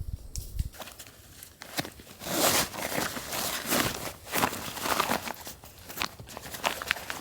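Footsteps of a person walking over the winter forest floor, settling into a steady walking pace about two seconds in.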